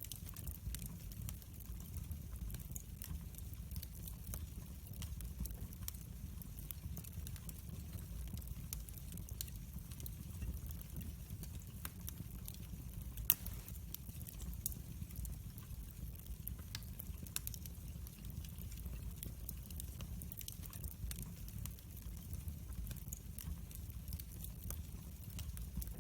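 Wood fire burning in a fireplace: a steady low rumble with frequent small crackles and pops, one sharper pop about halfway through.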